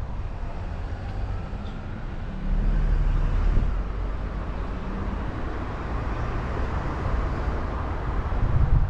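Car driving through city traffic, heard from a camera mounted on its roof: a steady low rumble of road, engine and traffic noise with a faint engine hum.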